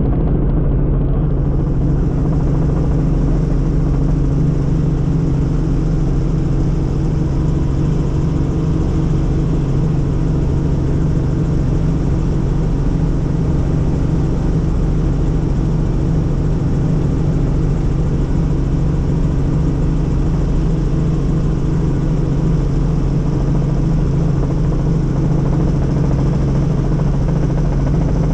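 Helicopter in flight: the engine and rotor make a loud, steady drone with a strong low hum that holds even throughout.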